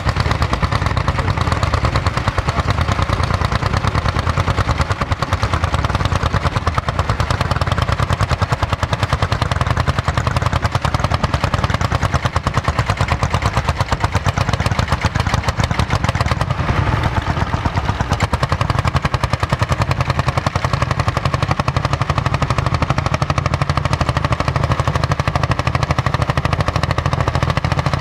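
Vintage tractor engine running steadily with a rapid, even exhaust beat like a machine gun.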